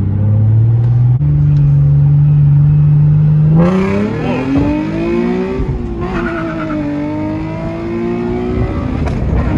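Nissan 370Z's VQ V6 through a Tomei exhaust with a freshly fitted Motordyne resonated Y-pipe, under way on the road. It holds a steady note, then rises in pitch as it pulls. About six seconds in it dips briefly and settles lower before pulling on. The new resonated Y-pipe has cleared the raspy tone, leaving it a lot more clear.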